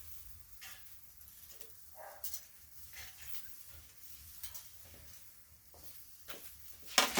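Scattered light taps and clicks of dishes and utensils being handled, with two sharp clinks near the end.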